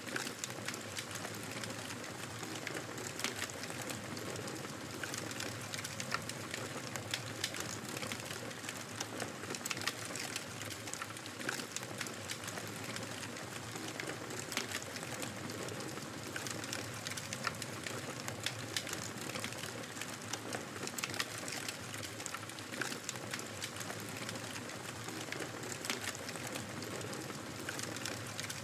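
Wood fire crackling steadily, with frequent irregular sharp pops and snaps over a soft hiss.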